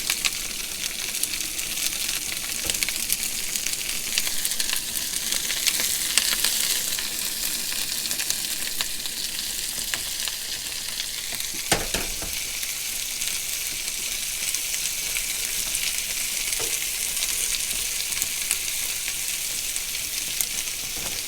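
Polish sausage, onions and green peppers sizzling steadily in a skillet, with scattered taps and scrapes of a utensil stirring them and one louder knock about halfway through.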